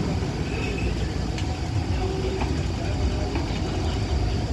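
Steady low rumble of a train running on the rails, with no horn sounding.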